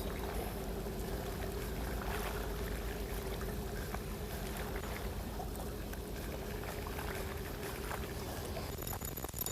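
Steady low rumble with a constant hum, as of a motor running, with a few faint ticks.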